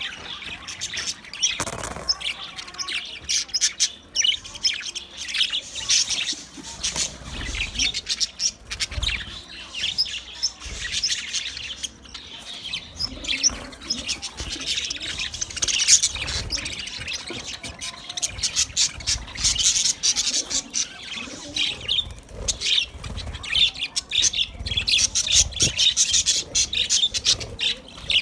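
A flock of budgerigars chattering: dense, overlapping short chirps and warbles that go on without a break.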